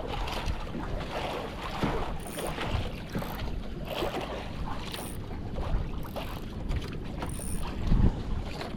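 Strong wind buffeting the microphone over choppy water lapping against a small boat, with several short high hisses along the way.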